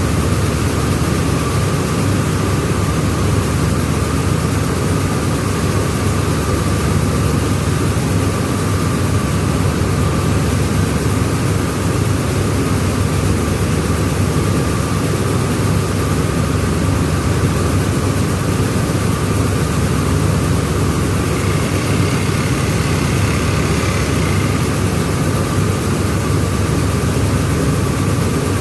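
Rice milling machine running steadily, a continuous heavy mechanical drone with a thin steady whine above it.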